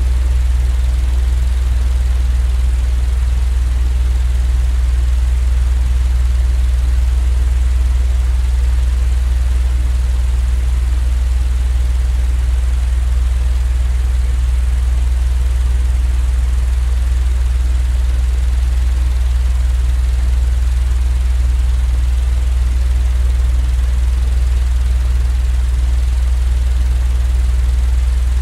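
Sleep-aid noise track: a steady, unchanging deep hum with an even hiss above it, with no change in level or pitch.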